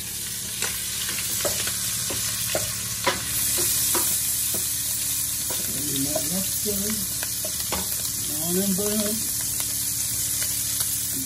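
Lobster meat sizzling in a frying pan while a wooden spoon stirs and scrapes it, knocking against the pan several times in the first few seconds.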